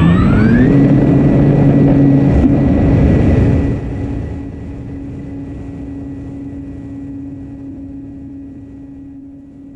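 Propeller aircraft engine winding up in a rising whine, then holding a steady pitch; it drops in level about four seconds in and fades away.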